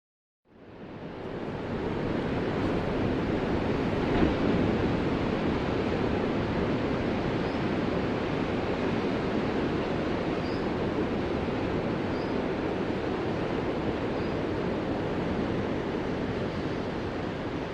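Ocean surf washing steadily, fading in about half a second in, with a brief louder surge about four seconds in.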